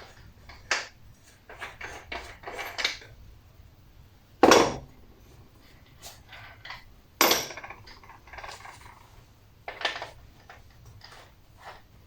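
Irregular metallic clanks and knocks of tools and metal parts being handled on a workbench, with the two loudest knocks about four and a half and seven seconds in.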